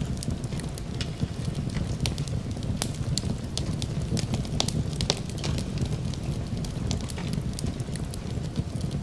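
Crackling wood fire in a fireplace: frequent sharp pops and snaps over a steady low rumble, mixed with steady rain.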